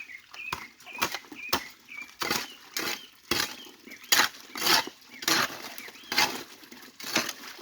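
Repeated swishing strokes, about two a second, from manual clearing work at the stream, with a few short high chirps in the first two seconds.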